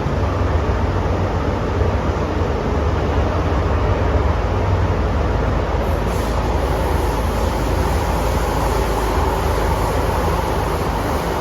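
Cabin noise of an MTR M-Train electric multiple unit running between stations: a steady low rumble of wheels and running gear, with a high hiss joining about six seconds in.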